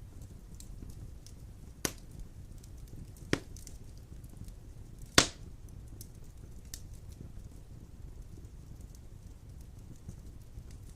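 Wood fire burning in a fireplace: a steady low rumble of flames with small crackles throughout. Three sharp pops come about two, three and five seconds in, the last the loudest.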